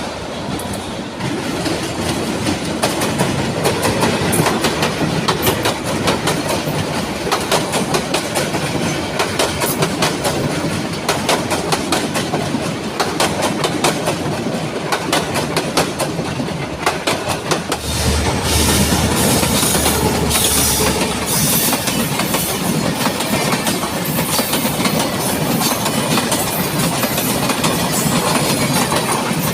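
Train running along the track, its wheels giving a steady clickety-clack over continuous rumble. About two-thirds of the way in the sound gets louder and fuller, with more deep rumble and hiss.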